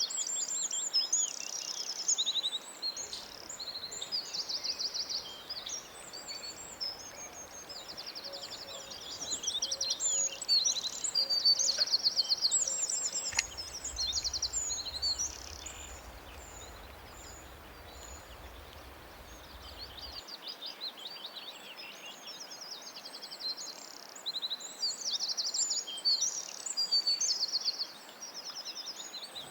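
Several birds chirping and singing, with high, quick chirps and rapid trills overlapping throughout over a faint background hiss.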